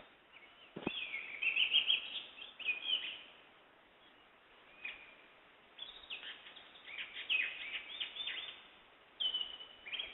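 Songbirds singing: three bursts of quick, high chirping phrases with short pauses between them, and a single short note in the middle.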